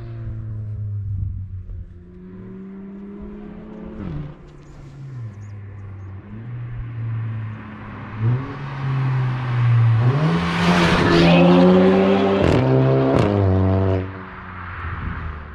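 Stage-2-tuned Audi A3's EA888 gen3 turbocharged four-cylinder accelerating hard. The engine note climbs through the revs and drops at each gear change, about four and eight seconds in. It is loudest from about ten to fourteen seconds in, with two quick dips in revs near the end of that stretch, then settles lower.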